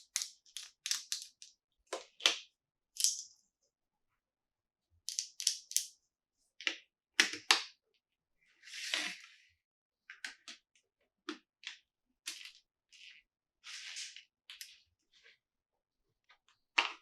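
Hands handling a plastic toy and its packaging: irregular sharp taps and clicks, in short clusters with silent pauses between, and a brief rustle about nine seconds in.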